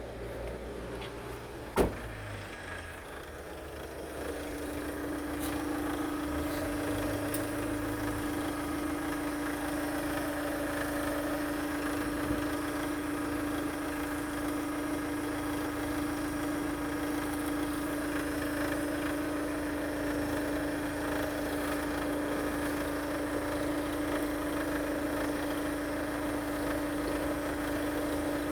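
Chevrolet Captiva's 2.0 VCDi (Z20S1) four-cylinder turbodiesel running at a steady idle, with a constant whine over the engine note. A single sharp knock comes about two seconds in, and the engine grows louder a couple of seconds later, then holds steady.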